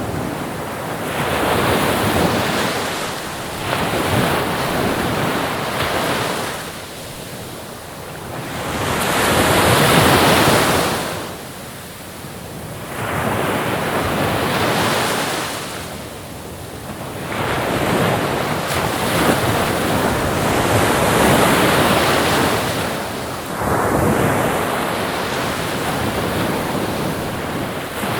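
Ocean waves breaking and washing on a shore, the surf noise swelling and falling back every few seconds, with wind.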